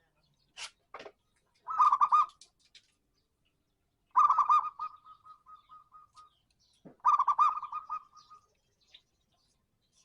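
Zebra dove (perkutut) cooing: three short, rhythmic coo phrases about two and a half seconds apart. The middle phrase trails off into a run of quick, softer notes.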